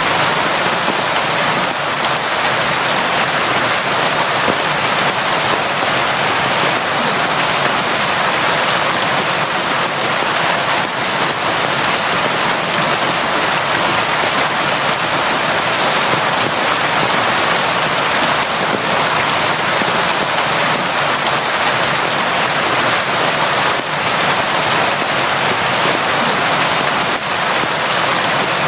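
Steady, constant rain falling, an even hiss with faint scattered drop ticks and no let-up.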